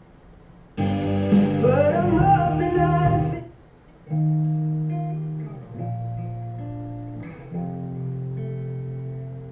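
A song's opening played through Audioengine active speakers and picked up by a microphone: acoustic guitar with a sung line for the first few seconds, then held guitar chords after a short gap.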